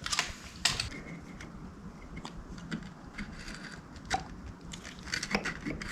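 Scattered light clicks and scrapes of hand tools at work on a motorcycle's magneto flywheel as a flywheel puller draws it off. The louder clicks come near the start, about four seconds in and near the end.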